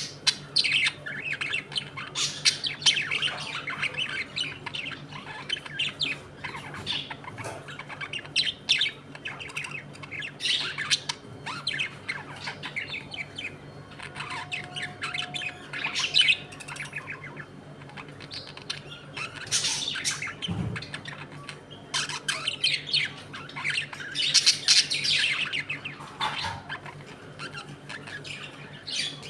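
A colony of budgerigars chattering, chirping and squawking, many calls overlapping without pause, over a steady low hum.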